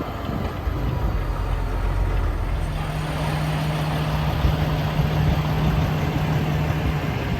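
Car-hauler truck's engine and road noise, a steady rumble, with a steady low hum coming in about three seconds in.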